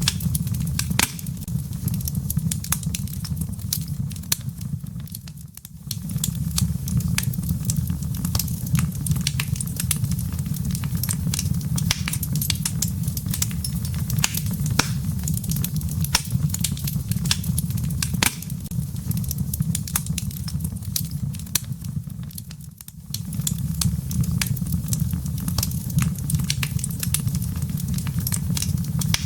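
Wood fire burning in a fireplace, with frequent small pops and snaps of crackling embers over a steady low rumble of flame. The sound briefly fades down twice, about five seconds in and again near twenty-three seconds.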